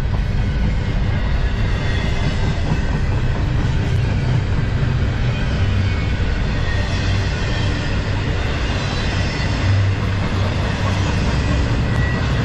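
Double-stack intermodal freight train's loaded well cars rolling past close by: the steady, even noise of steel wheels running on the rails.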